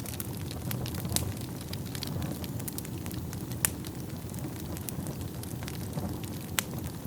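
Wood fire burning in a fireplace: a steady low rumble of flames with scattered sharp crackles and pops, the loudest a few seconds in.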